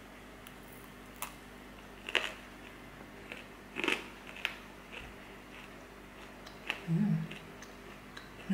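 A person biting into and chewing a freshly baked, greasy homemade cookie: a few crisp crunches in the first four or five seconds. Near the end comes a short hummed 'mm'.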